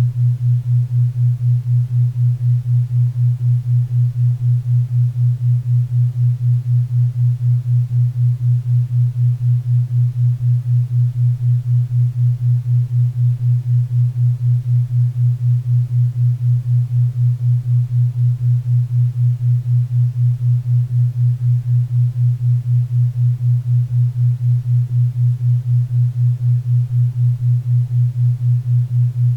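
Synthesised 4 Hz theta-wave tone: a steady low hum pulsing about four times a second, over a faint bed of pink and brown noise.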